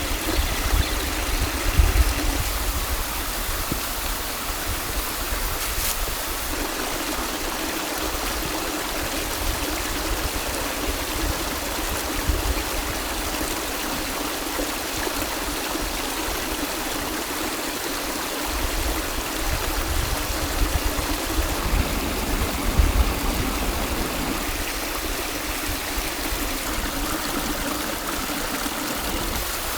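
Mountain valley stream flowing in a steady rush, with low rumbles coming and going underneath.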